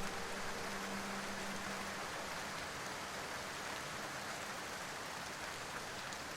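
Steady rain ambience, an even hiss of rainfall. A low held music note fades out in the first two seconds.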